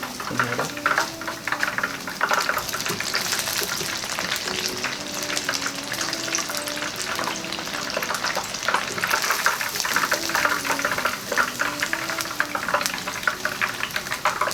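Battered chicken pieces crackling and sizzling steadily in hot oil in a deep fryer, during the second fry that crisps the crust.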